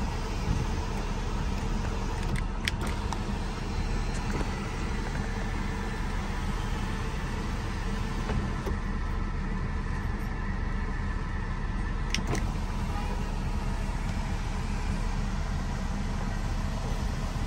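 Steady low hum of the BMW X3 running, heard inside the cabin, with a few short clicks about two and a half seconds in and again near twelve seconds.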